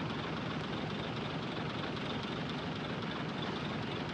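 Heavy diesel earthmoving machinery running steadily, with an even engine noise that does not rise or fall.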